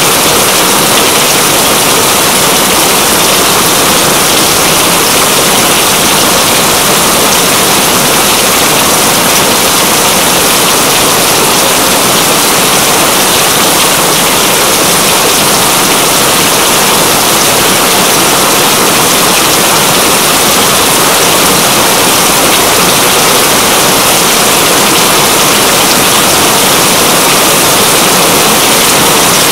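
Steady heavy rain, loud and even throughout, with no let-up.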